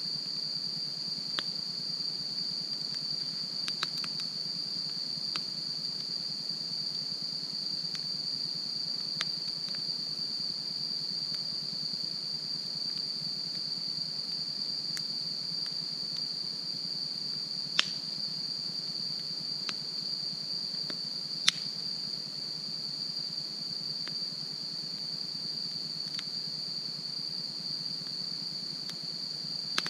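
Wood campfire crackling with scattered sharp pops, two of them louder past the middle, over a steady high-pitched insect chorus.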